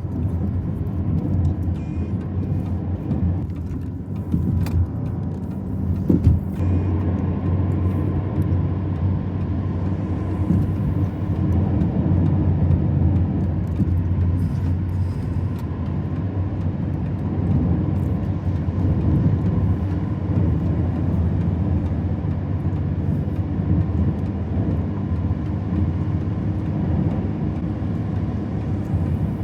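A motor vehicle running: steady engine and road rumble, with a few brief clicks about four to six seconds in.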